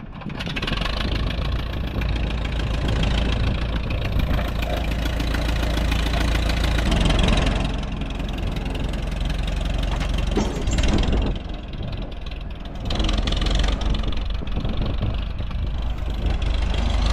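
Antique tractor engine running steadily nearby. Its level dips briefly about eleven seconds in, then picks up again.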